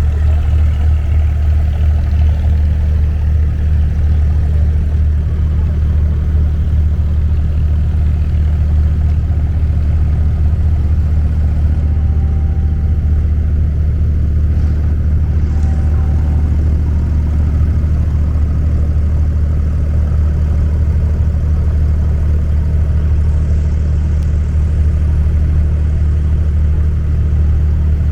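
Boat engine running steadily, a loud low drone with no change in speed.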